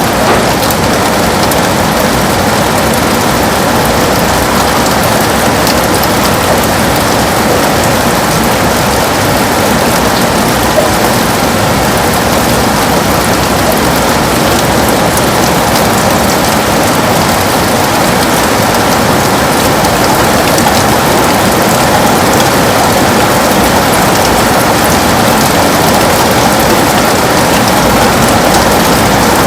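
Heavy rain falling steadily, drops pattering on window glass as a dense, unbroken hiss with fine individual ticks.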